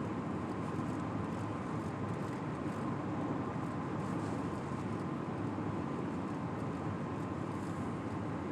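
A long freight train's cars rolling past steadily.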